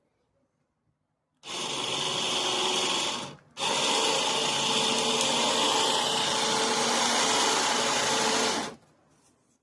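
Electric power drill running at speed in two stretches: about two seconds, a brief stop, then about five seconds more.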